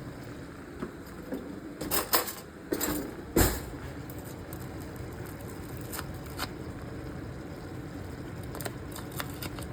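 Cookware clatter as crushed tomato is added to a karahi of chicken on the stove: a cluster of sharp clinks and knocks about two to three and a half seconds in, the loudest near the end of that cluster, then a few lighter taps over a low steady background.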